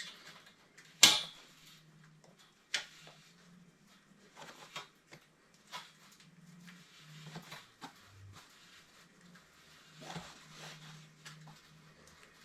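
Scattered knocks and clicks of hand tools and copper pipe being handled during plumbing work, with one sharp knock about a second in and another a couple of seconds later, over a steady low hum.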